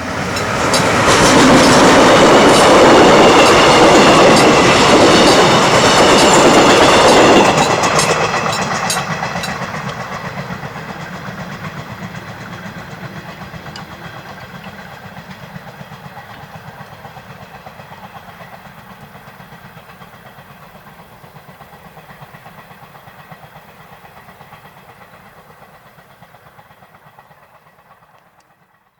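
Train passing over the level crossing: loud for several seconds, then the wheels clacking in a regular rhythm over the rail joints as it draws away, fading out near the end.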